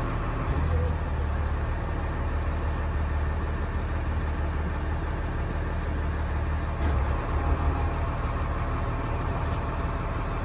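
A large engine running steadily, a constant low drone with a faint rush of noise over it.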